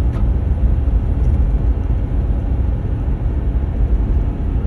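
A 2014 Ram 1500 EcoDiesel pickup cruising at highway speed, heard from inside the cab: a steady low rumble of engine, tyres and road. The truck is being run at speed to try to force a diesel particulate filter regeneration.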